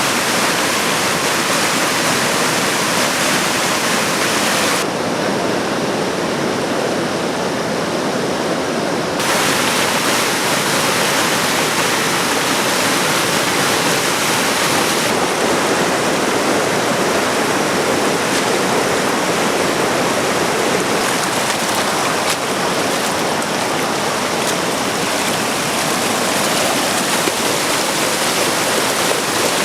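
Fast mountain river rushing over rocks, a loud steady wash of water. Its brightness changes abruptly about 5, 9 and 15 seconds in.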